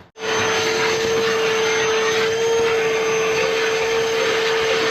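Vacuum cleaner running steadily, a loud rushing hiss with a steady mid-pitched whine, switching on abruptly at the start, used to suck debris out of the engine.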